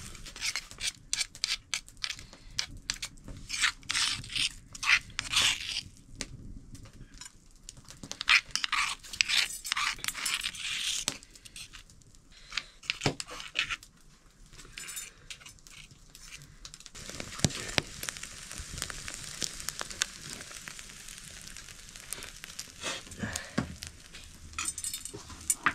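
Short, irregular bursts of scraping and crackling noise from kitchen work. About two-thirds of the way in, a steady sizzle of food frying in hot oil sets in.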